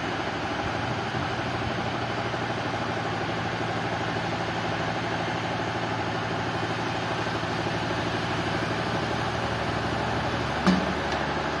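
Sawmill machinery running with a steady low hum and a wide noise. About ten seconds in, the hum drops and a single sharp knock sounds.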